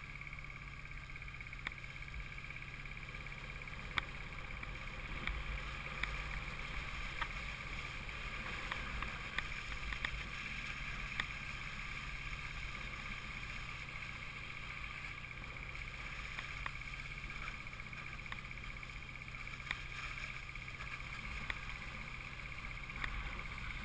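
Honda CM200T motorcycle's small parallel-twin engine running steadily while riding, with wind rush and a few faint scattered ticks.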